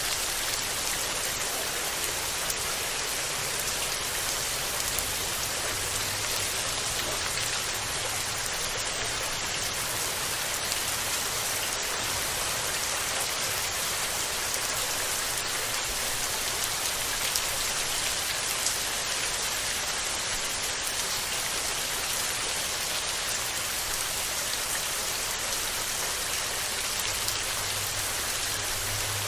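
Steady rain falling and pattering on surfaces, a dense even hiss of many small drops with no letup.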